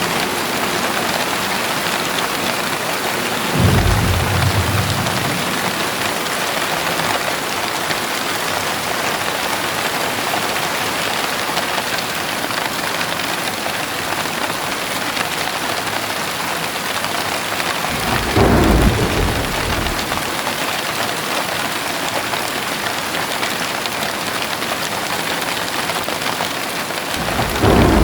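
Heavy rain pouring steadily, with three short, low rumbles of thunder: one about four seconds in, one midway and one near the end.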